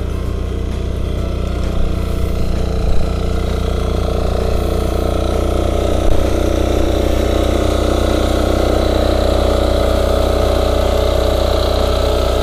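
Yanmar A-10V cultivator's small engine running steadily under load as the machine works and turns in the soil, growing a little louder about four seconds in, with a few brief knocks.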